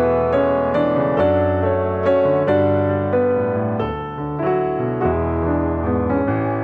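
Background piano music: a gentle melody of notes about three a second over sustained bass notes.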